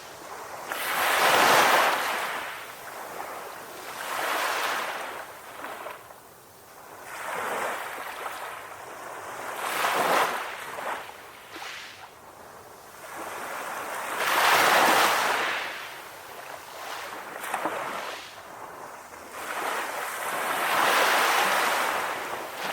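Sea waves breaking and washing on a beach, in repeated surges every few seconds. The loudest breakers come about a second and a half in, near the middle, and near the end.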